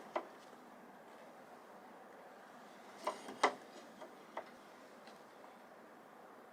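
A few light knocks and clicks, two close together about three seconds in and another about a second later, against a quiet background.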